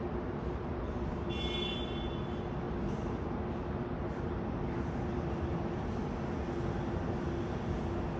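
Steady rumble of airport machinery with a continuous low hum. A little over a second in, a short high-pitched call with several pitched lines sounds briefly over it.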